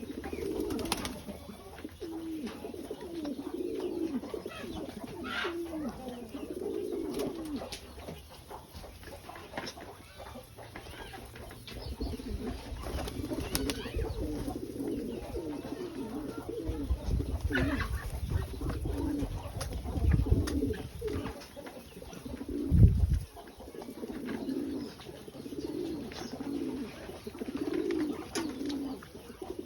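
Domestic pigeons cooing over and over, in low, repeated calls. A low rumble runs through the middle, and there is a single loud thump about three-quarters of the way in.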